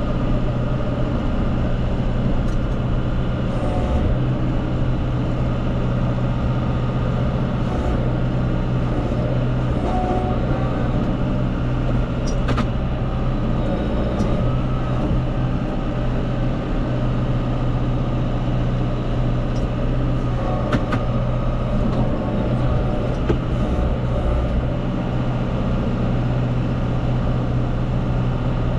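Farm machine's engine running steadily while scraping manure off a feeding pad, with a few sharp clanks.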